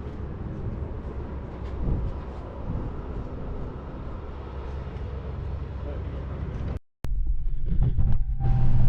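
Car on the move heard from inside the cabin: steady engine and road rumble. It breaks off suddenly near the end, and a steady low engine hum comes up in its place.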